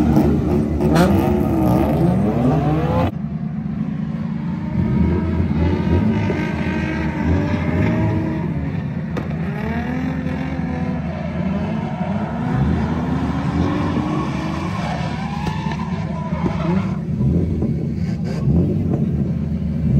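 Drift cars' engines idling and revving hard, the pitch rising and falling again and again over a steady low drone.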